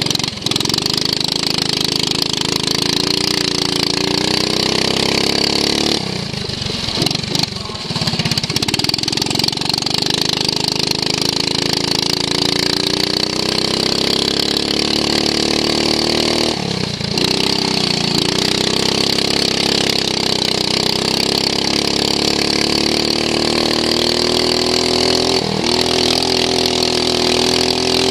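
Racing lawn mower's engine heard from onboard, running hard with its pitch climbing as it accelerates; it backs off briefly about six seconds in, again around seventeen seconds and once more near the end, then climbs again each time.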